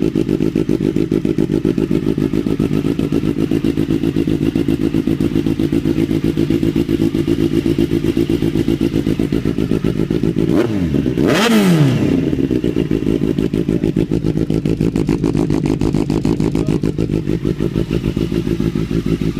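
Kawasaki Z800 inline-four idling through Arrow headers and a Leo Vince GP Pro aftermarket muffler, warming up just after a start, with a steady rapid exhaust beat. About ten and a half seconds in the engine is revved once briefly and drops straight back to idle.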